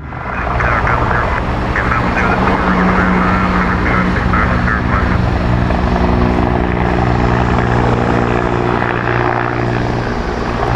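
Helicopter flying close overhead, its engine and rotor loud and steady.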